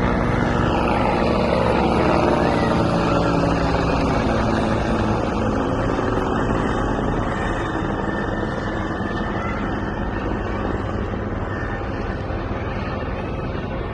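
Bell 412 helicopter flying close by, its rotor and turbine running steadily and slowly fading as it moves off.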